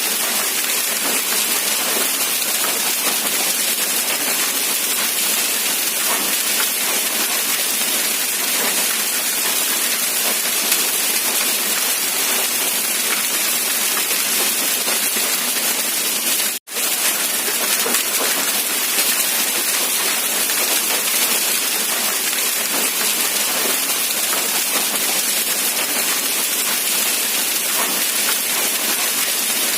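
Steady, even rain falling without a break in its hiss, except for a momentary dropout about two thirds of the way through.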